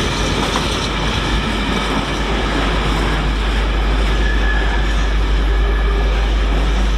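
British Rail Class 56 diesel locomotive running light engine, a good old racket: its engine gives a loud, steady rumble, with the wheels running on the rails.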